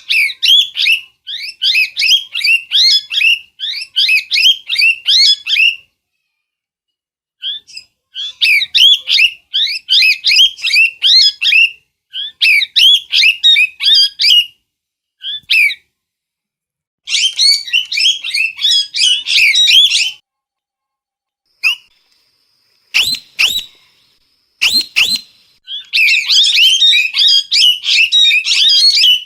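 A parrot screeching in runs of rapid, shrill, repeated calls lasting a few seconds each, broken by silent gaps. Two sharp knocks come about 23 and 25 seconds in.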